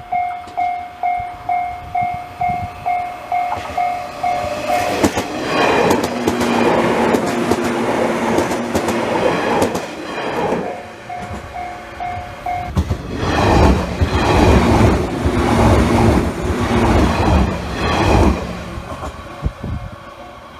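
Level-crossing warning bell ringing at about two to three strikes a second, then a JR West 117 series electric train runs past with its wheels clattering over the rail joints. The bell rings again briefly, and then a second, louder train passage with a deep rumble follows.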